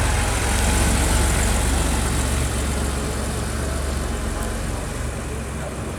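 A car engine running with a deep, steady note, slowly getting quieter.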